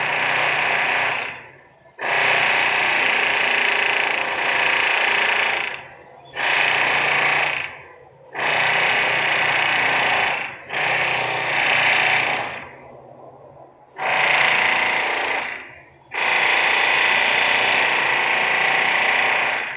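Loud industrial machine noise in repeated bursts, about seven of them, each lasting one to four seconds and starting abruptly, with short lulls between.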